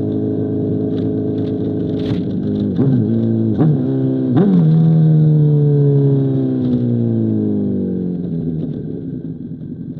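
2005 Honda CBR1000RR inline-four through an SC Project CR-T exhaust, running at steady revs. About three seconds in come three quick downshifts, the revs jumping up at each one. The revs then wind slowly down over several seconds and the engine gets quieter near the end.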